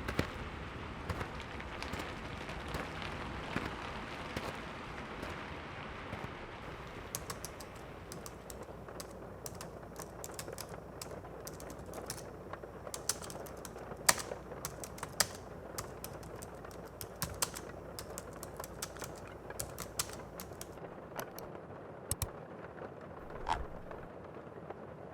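Steady rain hiss that thins out after about seven seconds, leaving scattered, irregular sharp clicks and ticks over a quieter background.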